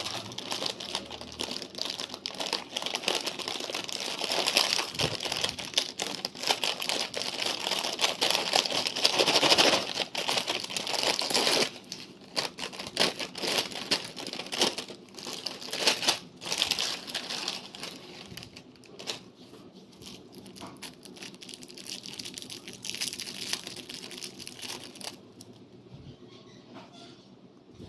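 Plastic snack packaging crinkling and rustling as it is handled and opened, with many small clicks and taps. It is busiest for the first dozen seconds, then goes on more quietly.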